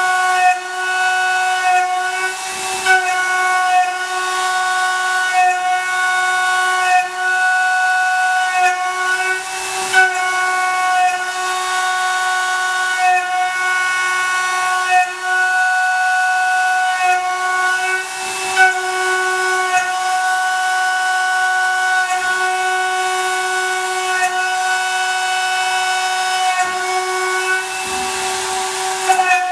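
CNC milling machine cutting aluminium: a steady high-pitched cutting whine over a hiss. The tone shifts slightly every second or so as the cutter changes direction, and there are a few short louder bursts.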